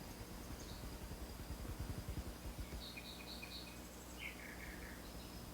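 Outdoor nature ambience: a steady high insect trill under faint bird calls. About three seconds in a bird gives three or four quick chirps, then a short falling run of notes. A low irregular rumble comes and goes in the first half.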